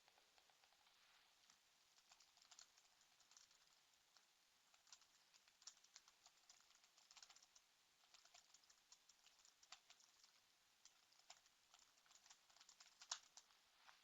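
Faint typing on a computer keyboard: irregular runs of key clicks, with one louder keystroke near the end.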